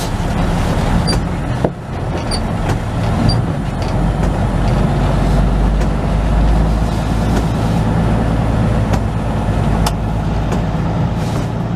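Semi truck's diesel engine running steadily, heard from inside the cab while the truck pulls in, with a few light clicks and knocks.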